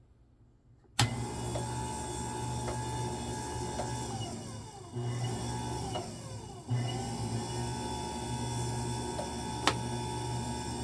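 Tabletop band sealer switched on about a second in, its motor and conveyor running with a steady hum and faint regular ticks. Twice the motor's tone falls as it slows, then picks back up. A sharp click near the end.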